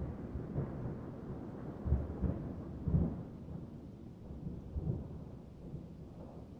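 Rolling thunder rumbling low during a thunderstorm, with a few louder swells about two and three seconds in, then dying away toward the end.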